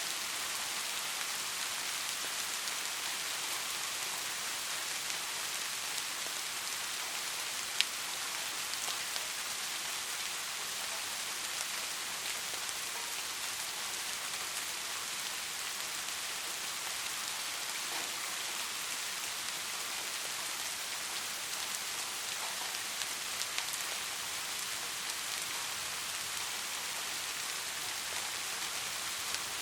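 Steady rain falling, an even hiss with a few louder drops ticking now and then, the sharpest about eight seconds in.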